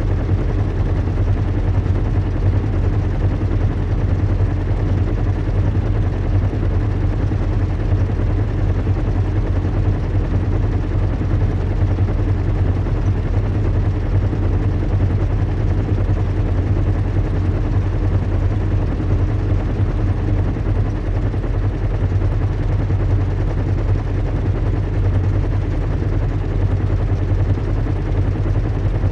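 Recreated cabin ambience of a zeppelin airship in flight: a steady deep engine hum with an even rushing hiss over it, unchanging throughout.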